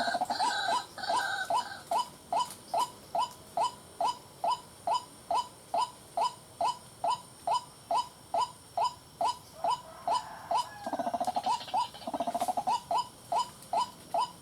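White-breasted waterhen calling: a steady, monotonous run of short, sharp 'kwak' notes, about two and a half a second, all at one pitch. Rougher croaking chatter joins in at the start and again about eleven seconds in.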